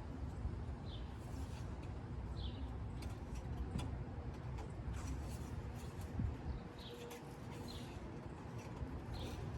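A small bird chirping repeatedly, a short falling chirp about every one to one and a half seconds, over a steady low outdoor rumble with a few light clicks.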